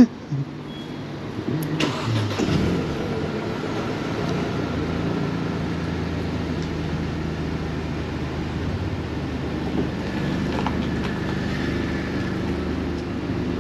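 A car engine starts up about two seconds in, then runs steadily as the car edges slowly forward.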